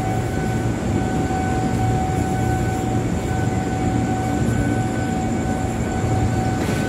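Train running slowly into a station: a steady low drone from the train with a constant high whine held over it.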